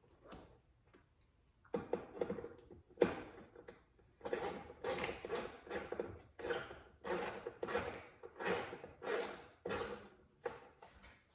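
A hand ratchet driving in the screws that hold the new blower-motor resistor: after a few knocks, a run of about ten short rasping strokes at roughly two a second.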